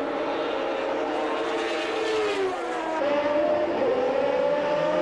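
Formula One cars' naturally aspirated 3.5-litre racing engines running at high revs. The pitch falls as a car comes off the throttle, then changes abruptly and louder about three seconds in and climbs again under acceleration.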